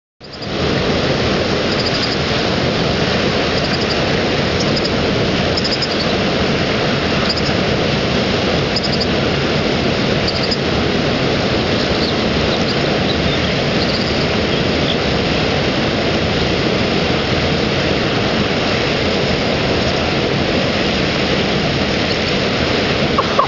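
Steady rush of a waterfall, with a bird screaming over it: short high-pitched calls repeating every second or two through the first half, then fading out.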